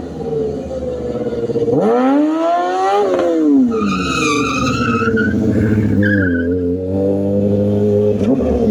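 Stunt motorcycle engine revving up and down in repeated sweeps, with a tyre squealing for about a second and a half midway, then running more steadily near the end.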